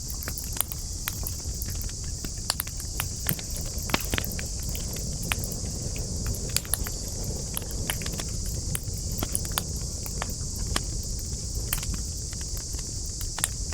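Wood burning in a campfire, crackling with frequent short sharp pops at irregular intervals over a steady high-pitched hiss and a low rumble.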